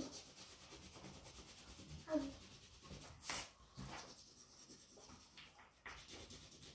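Faint, steady scratching of a crayon rubbed back and forth across paper as an area is coloured in.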